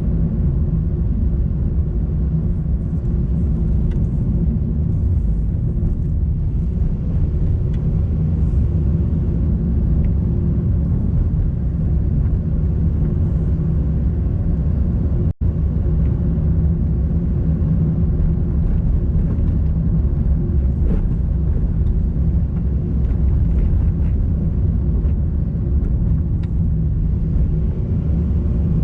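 Steady car driving noise, low engine and road rumble with a steady hum, cut by a split-second drop-out about halfway through.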